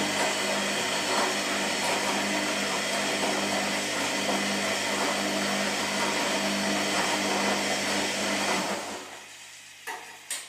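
Washing machine running: a steady motor hum under a loud hiss that winds down and stops about nine seconds in, followed by two sharp clicks.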